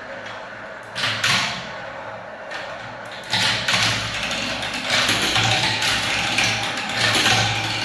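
Marbles rolling down a spiral marble-run track, a continuous rattling roll with sharp clicks as the balls knock along the track. It gets busier and louder from about three seconds in, as more balls run at once.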